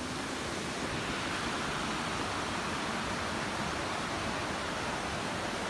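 Steady rushing of flowing water, a stream or river running hard.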